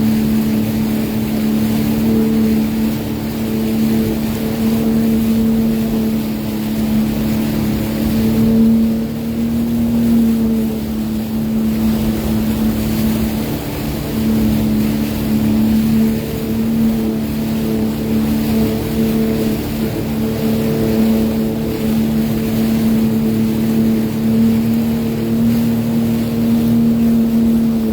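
Sea-Doo Fish Pro personal watercraft engine running at a steady speed, its pitch wavering slightly, with wind and water rushing past.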